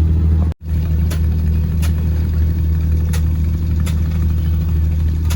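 Fishing boat's engine running steadily, a deep, even drone. It cuts out for an instant about half a second in.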